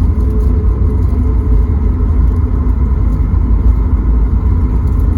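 Cabin noise aboard a Boeing 737 MAX 8: a steady, heavy low rumble from the engines and the airframe, with a few faint steady engine tones above it.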